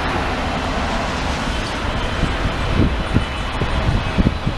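Jet airliner engines giving a loud, steady rumbling roar, with irregular low thuds in the second half.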